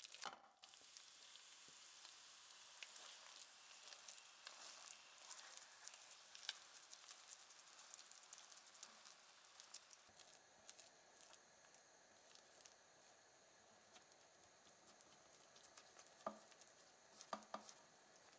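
Lentil and cabbage batter frying in hot olive oil in a nonstick pan: a faint, steady sizzle full of small crackles while a silicone spatula spreads and pats it flat. There are a few soft knocks of the spatula against the pan near the end.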